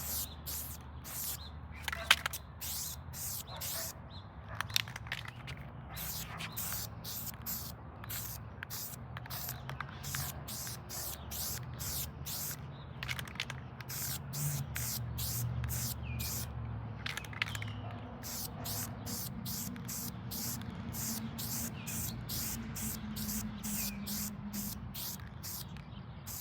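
Aerosol spray-paint can hissing in short bursts in quick succession, as paint is sprayed on in passes. There is a sharp click about two seconds in.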